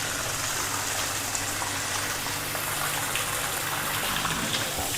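Water gushing steadily as the cowshed floor is washed down.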